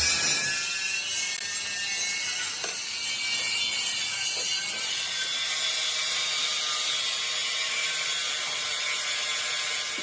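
Steady metalworking noise on a steel truck frame: a continuous, even high-pitched hiss.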